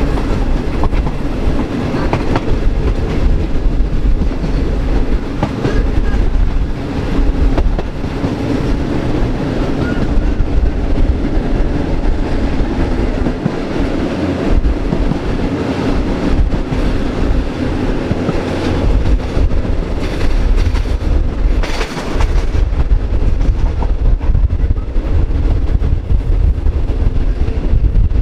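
Passenger train coaches running along the track, heard from an open carriage window: a steady wheel-on-rail rumble with scattered clicks and knocks from the wheels over the rail joints.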